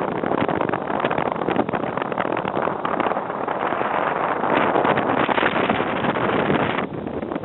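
Motorboat under way: a steady rush of wind on the microphone and water noise over the running motor, easing briefly near the end.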